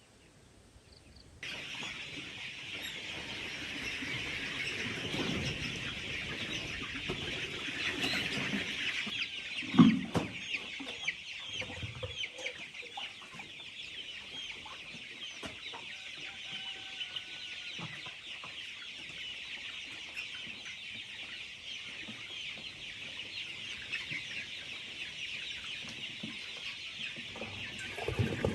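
A flock of chickens calling together, a dense steady chatter of many short high calls that starts about a second and a half in. A loud thump about ten seconds in.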